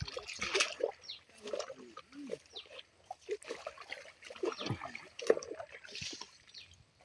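A man's voice in short, low grunts and mutters, with no clear words.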